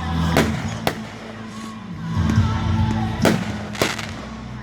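Aerial fireworks going off in four sharp bangs, two near the start and two past the middle, over music playing in the background.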